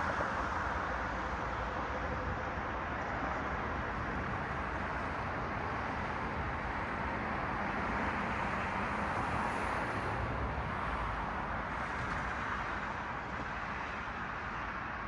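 Road traffic: cars passing on a city street, a steady wash of tyre and engine noise that swells a little about eight to ten seconds in and eases off near the end.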